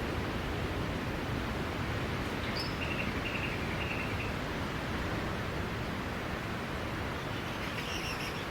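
Steady wash of sea waves on a beach, an even rushing hiss, with a few faint high chirps about three seconds in and again near the end.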